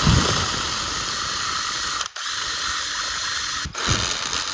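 Power drill running steadily as it bores a hole, stopping briefly about two seconds in and again near the end.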